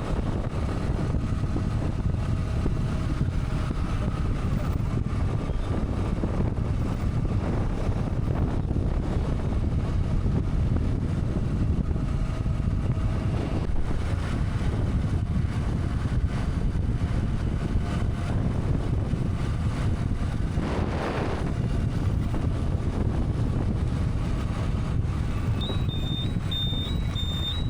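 Motorcycle riding along a road: steady engine and road noise with wind buffeting the microphone. About two-thirds of the way through there is a brief rushing swell, and near the end a short run of high beeps.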